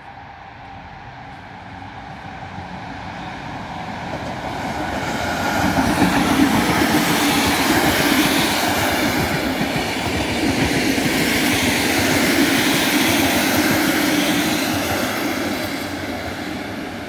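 Locomotive-hauled express passenger train passing close by on the rails. The wheel and rail noise grows over the first six seconds, stays loud while the coaches roll past, and eases a little near the end.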